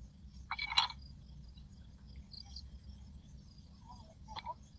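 Faint frogs croaking in short calls, about half a second in and again near the end, over a steady low hum.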